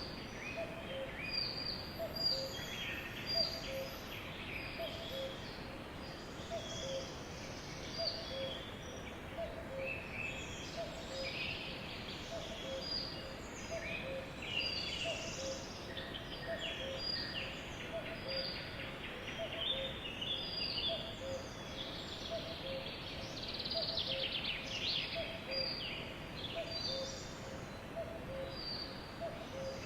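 A flock of sparrows chirping and chattering continuously, many short overlapping calls. A faint regular low double note repeats about once a second underneath.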